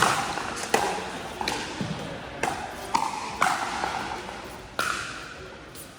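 Pickleball paddles hitting a plastic ball in a rally: about seven sharp pops at uneven intervals, each ringing briefly.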